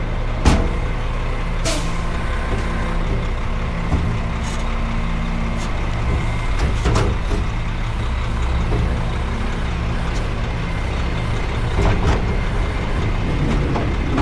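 Front-load garbage truck's diesel engine running steadily, with a few sharp knocks, the loudest about half a second in, and a short hiss of air near two seconds.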